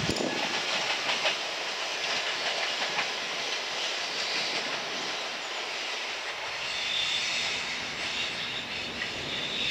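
Freight train on the climb, receding: wheels clattering over the rail joints with a steady rushing rail noise, its low rumble thinning out as it draws away.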